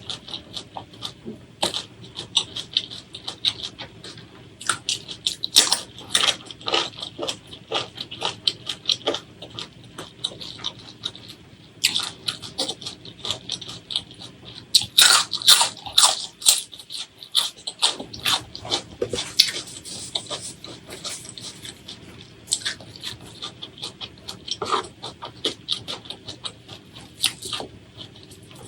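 Close-miked chewing and mouth sounds of a person eating: wet smacking and quick crisp clicks that come in dense runs, busiest about five to seven seconds in and again around fifteen to twenty seconds in.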